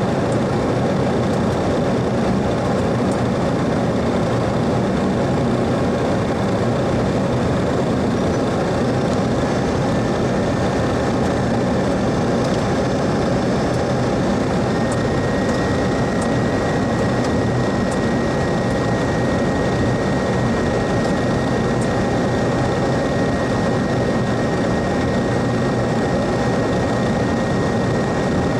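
Flight-deck noise of a Boeing 737 Classic taxiing on its CFM56-3 engines at idle: a steady, even noise with a faint high thin tone coming in about nine seconds in.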